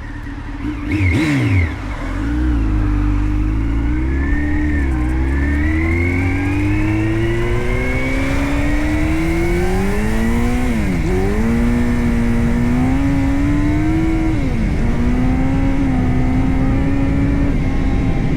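Motorcycle engine blipped about a second in, then accelerating, its pitch climbing through the gears with sharp drops at two shifts about two-thirds of the way in and near the end, then holding a steady cruise. Wind and road noise grow under it.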